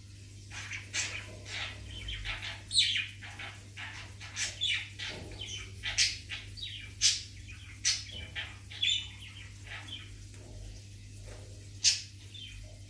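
Small birds chirping in quick, irregular short calls, some sliding in pitch, over a steady low hum.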